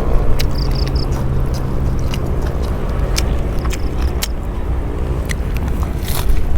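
Wind rumbling on the microphone, with scattered sharp clicks through it and two brief high-pitched tones.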